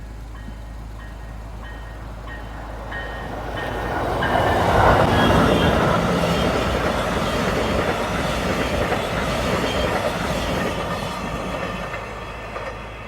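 VIA Rail Siemens Charger test train passing by. Its rumble and wheel noise build over a few seconds, are loudest about five seconds in, hold, and die away near the end.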